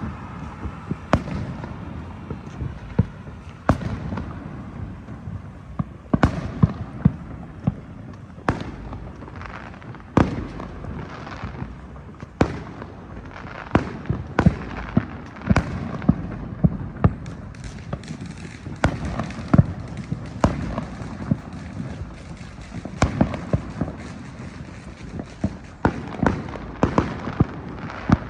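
Fireworks and firecrackers going off all around: dozens of sharp bangs at irregular intervals, some in quick clusters, over a steady low rumble of more distant bangs.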